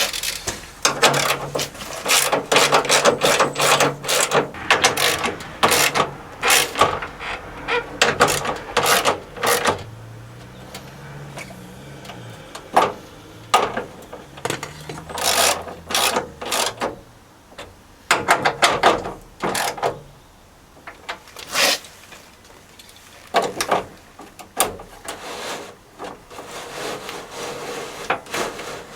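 Hand ratchet clicking in repeated bursts of short rasping strokes as the window regulator's fixing bolts are tightened on a van door, with pauses between the bursts.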